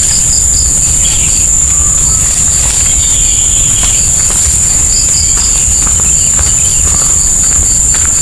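Insects, crickets or the like, singing: a steady high-pitched drone with a quick, regular chirping over it, about five chirps a second, above a steady low rumble.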